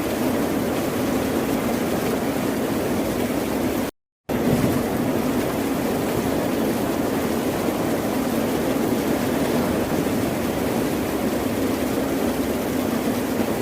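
Steady wash of ocean surf, a continuous even rush without separate breaking waves. It drops out to silence for a split second about four seconds in, then resumes.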